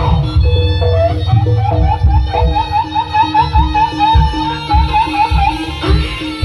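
Javanese jaranan music: a shrill melody line with a long warbling trill in the middle, over regular low drum beats and a repeated pitched percussion note.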